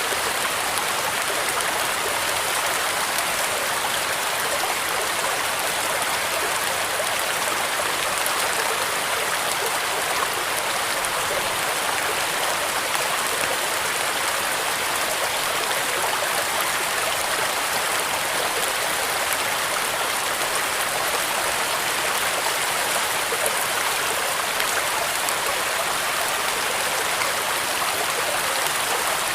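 Steady rain: a dense, even hiss that does not change.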